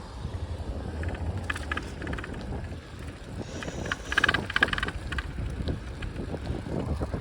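Wind rumbling on the microphone of a moving bicycle. Two short spells of rapid clicking or rattling come about a second in and again around four seconds in.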